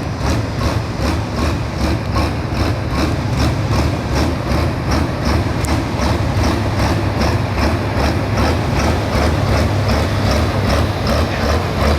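Heavy diesel engine running steadily with a deep rumble and an even pulse of about four beats a second.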